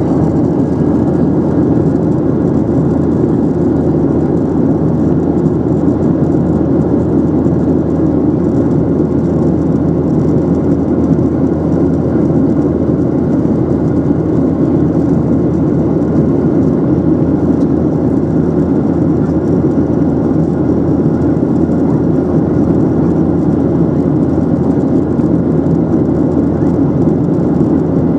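Steady cabin noise inside a Boeing 737-800 airliner, the drone of its CFM56-7B engines mixed with the rush of air over the fuselage, even and unbroken.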